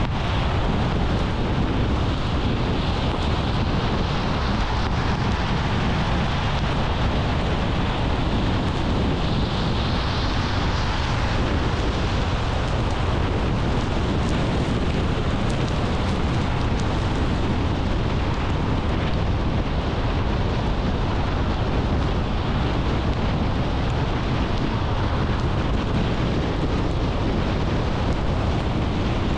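Car driving at a steady speed: continuous road, tyre and wind noise.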